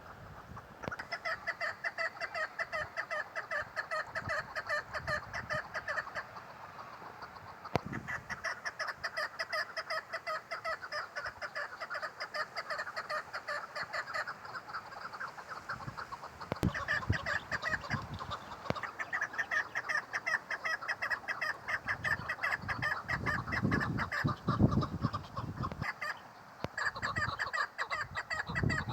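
Female chukar partridge calling: long runs of rapid, repeated clucking notes in several bouts with short pauses between them. Low bumps come in during the later bouts.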